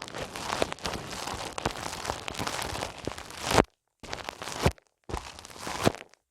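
ASMR ear massage: hands rubbing close on a microphone's ears, giving dense crackling, rustling friction noise. It comes in one long stretch and then two shorter ones, each growing louder and then stopping abruptly.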